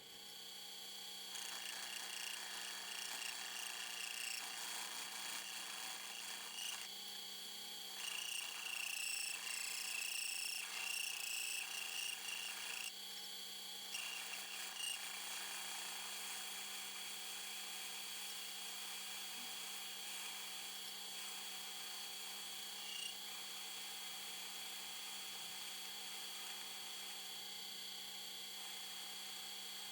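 Metal lathe turning slowly with a steady motor whine, while a parting tool cuts into a small metal workpiece. The scraping of the cut comes and goes in stretches of several seconds, then eases off in the second half.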